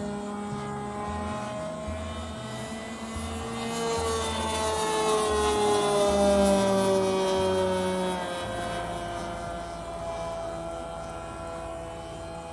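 Radio-controlled model airplane's engine running as the plane makes a pass, growing louder toward the middle and then dropping in pitch as it goes by.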